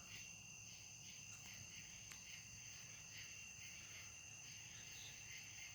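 Faint crickets chirping: a steady high trill with a softer pulsing chirp. A faint tick sounds about two seconds in.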